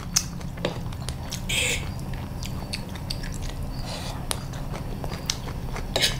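Close-up chewing of fried rice-flour cake with egg and shredded green papaya, with a few sharp clicks of a metal fork and spoon against the plate.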